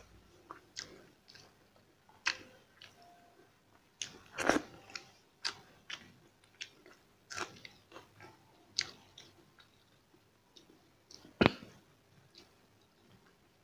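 A person chewing a mouthful of rice and dal eaten by hand, close to the microphone, with irregular short wet smacks and clicks. The loudest smacks come about four and a half and eleven and a half seconds in.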